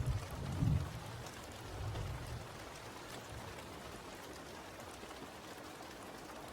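Steady rainfall: an even hiss of rain on a surface, with a couple of low rumbles in the first second and again around two seconds in.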